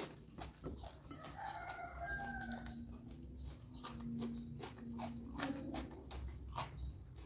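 Close-up chewing and crunching of raw food, in many short clicks. Behind it a rooster crows once, about a second in, followed by a dove cooing in a few low drawn-out notes.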